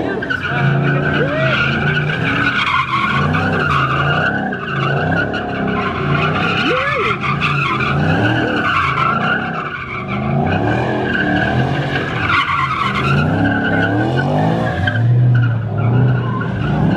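Car tires squealing continuously on pavement over a revving car engine whose pitch rises and falls: a car spinning its wheels.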